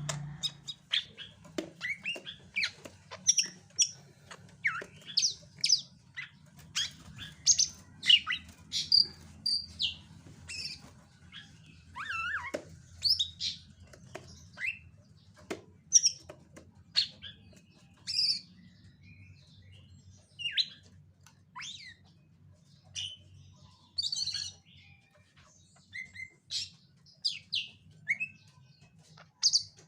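Cucak ijo (greater green leafbird) calling in an over-aroused, OB state: an irregular, rapid string of short chirps and sharp sliding calls with brief pauses. A faint low hum runs underneath.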